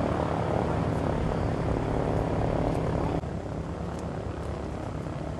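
Aircraft engine running steadily; about three seconds in the level drops suddenly and the engine goes on more quietly.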